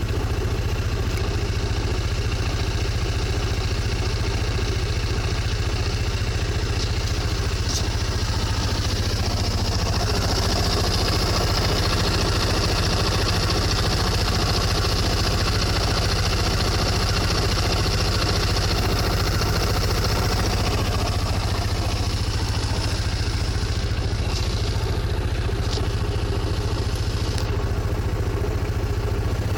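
Motorcycle engine idling steadily, with an abnormal noise from the drivetrain that the owner cannot identify. The engine has barely warmed up.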